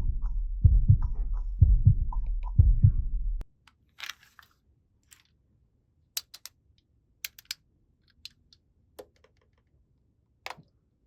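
Heartbeat sound playing as low lub-dub double thumps about once a second over a low hum, cutting off abruptly about three and a half seconds in. Then a few faint, sparse clicks and taps follow.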